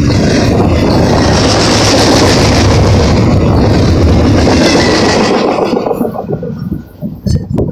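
Double-stack intermodal container train passing close by at speed: steady loud rumble and clatter of wheels on rail, which dies away about five and a half seconds in as the last car goes by. A few brief knocks follow near the end.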